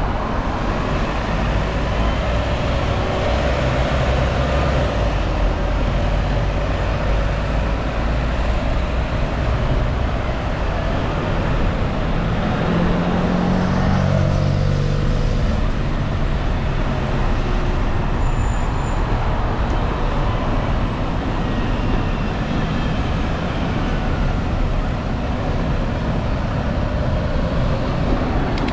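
Steady road traffic noise heard while riding a bicycle along a busy road, with wind rushing over the microphone. A motor vehicle's engine passes close by about halfway through.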